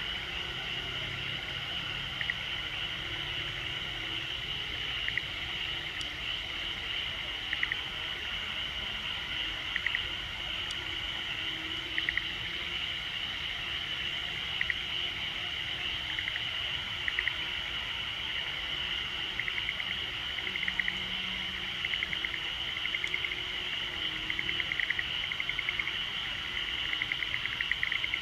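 Frogs calling at night: short pulsed calls repeat every two to three seconds and come closer together toward the end, over a steady high-pitched chorus.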